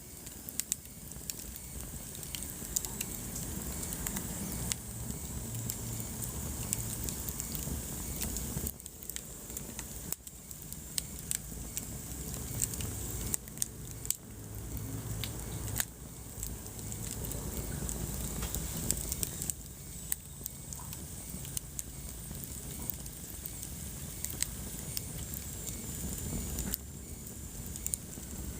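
Wood fire burning in a fireplace: frequent sharp crackles and pops over a low, steady rumble of flames.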